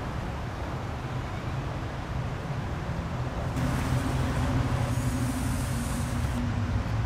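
Steady low motor-like rumble with a background hiss. A brighter hiss joins about three and a half seconds in and lasts about three seconds.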